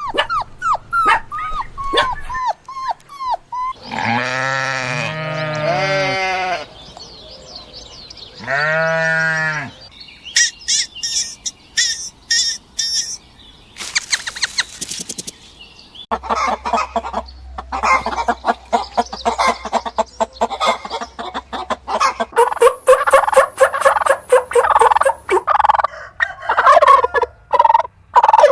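A run of different animal calls that changes every few seconds: short falling calls, then long pitched calls with an arched rise and fall, high quick chirps, and from about halfway on a dense, rapid chatter of many overlapping calls.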